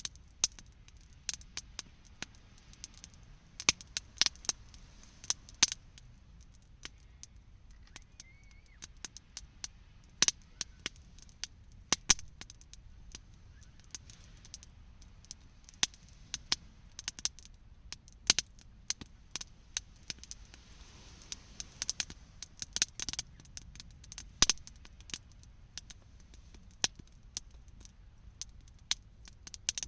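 Wood campfire crackling, with irregular sharp pops and snaps, a few of them much louder than the rest.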